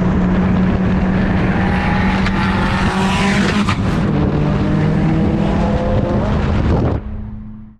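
Ford Anglia 105E's swapped-in SR20DET turbo four-cylinder running under way, a steady engine note whose pitch shifts with the revs about two to four seconds in; the owner suspects an injector problem. The sound drops sharply about seven seconds in and fades out.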